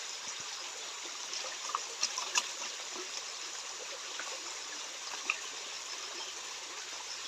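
Shallow stream water flowing and trickling steadily, with a few short clicks and splashes about two seconds in and again near five seconds.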